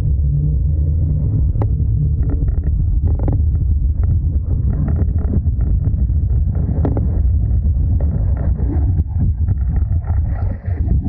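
Suzuki Every DA64V 4WD van on the move with a loud, steady low droning 'go-go' noise from the suspension, with frequent short knocks and rattles over it. The drone is the abnormal suspension noise the van is being checked for.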